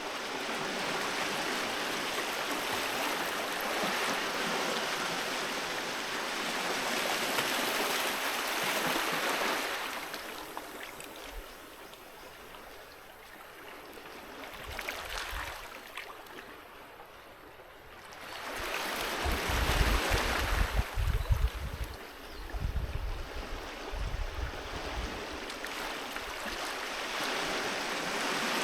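Sea waves breaking and washing on a beach. The surf rises and falls in slow swells, quieter in the middle, then a large wave comes in with a deep rumble about two-thirds of the way through.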